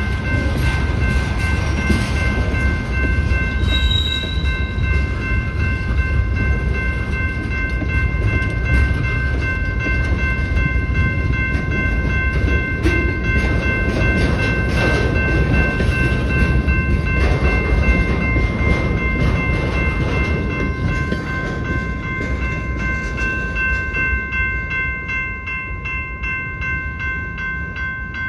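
Freight cars rolling past at close range, a low rumble with wheel clatter, under the steady ringing of a railroad crossing bell. Near the end the train noise fades as the last cars clear, and the bell's rapid strokes carry on.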